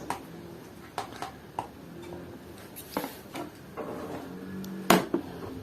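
A string of light clicks and knocks from objects being handled, with one sharper knock near the end.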